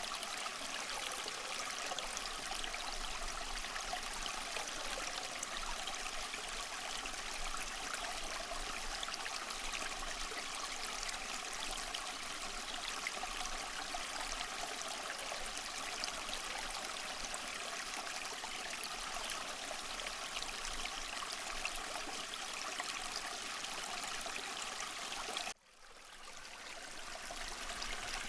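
Water trickling and splashing steadily down a small tabletop waterfall fountain. The sound cuts out abruptly near the end and fades back in over a couple of seconds.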